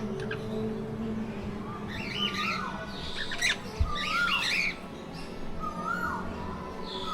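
Birds calling: a short call that rises and drops back, repeated every second or two, with a flurry of harsher, higher squawks in the middle.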